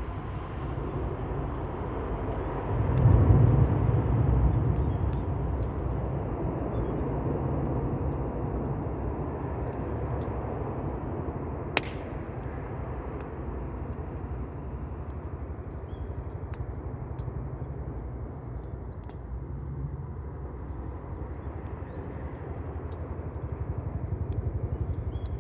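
Campfire burning: scattered sharp crackles and pops of burning wood over a steady low rumble, with one louder pop about twelve seconds in. The rumble swells louder around three to four seconds in.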